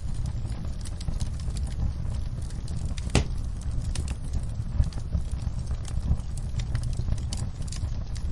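Wood fire crackling, with irregular sharp pops and snaps over a steady low rumble; one louder pop comes about three seconds in.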